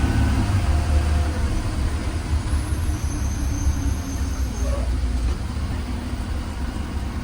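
Low steady rumble of a 2020 Blue Bird Vision school bus's engine and drivetrain, heard from inside the bus as it drives. The engine's pitched hum eases off about half a second in.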